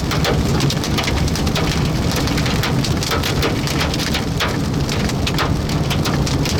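Heavy rain and large hail pounding on a vehicle, a steady loud din broken by frequent sharp hailstone strikes.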